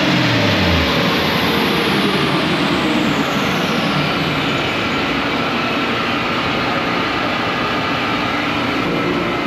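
A car engine's revs falling away in the first second, then steady engine and road noise. A high whine slides down in pitch over the next few seconds.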